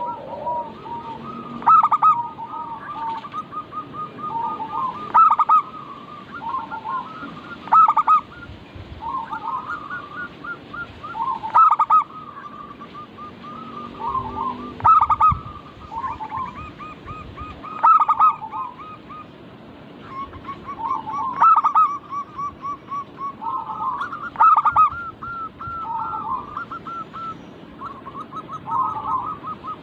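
Zebra doves (perkutut) singing: loud cooing phrases about every three seconds, with runs of quick, rolling coo notes in between, a lure recording of the song meant to set caged doves singing.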